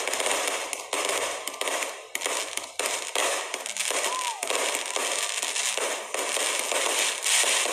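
Firework battery (cake) firing overhead: a dense, continuous crackle of many small reports and sharp pops as the aerial shells burst one after another.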